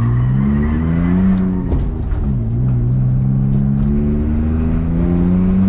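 BMW E46 drift car's engine revving under load: its pitch climbs, drops sharply about two seconds in, then climbs steadily again.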